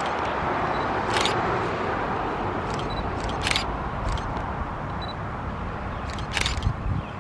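Double-deck electric intercity train (NSW V-set) approaching on the rails: a steady rumble of wheels and running gear on track. Short, sharp high clicks come every second or two.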